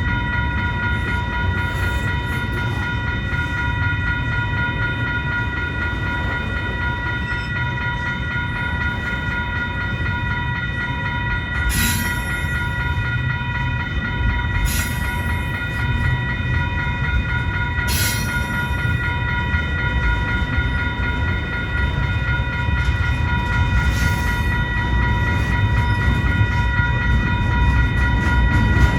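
Freight train cars rolling past with a steady low rumble. A constant high-pitched whine runs through it unchanged, and short hissing, clattering bursts come four times.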